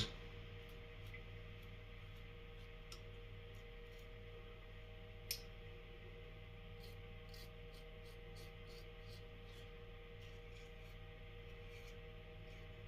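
Merkur Futur adjustable safety razor with a Gillette Nacet blade cutting stubble in short, faint, crisp strokes, with one louder click about five seconds in.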